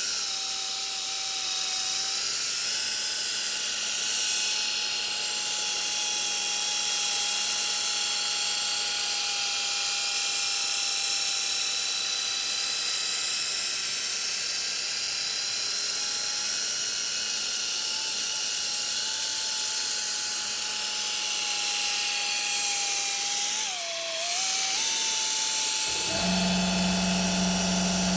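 Electric power tool motor running with a steady whine. The whine sags briefly a few seconds before the end, then shifts suddenly to a lower pitch as a deep hum joins it.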